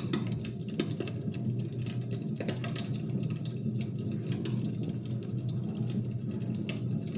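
Fire crackling in a fireplace: scattered sharp crackles and pops over a steady low rumble.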